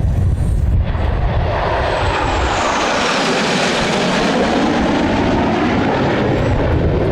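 Airplane flying past, a loud rushing engine noise that builds over the first couple of seconds, with a high whine falling in pitch as it goes by.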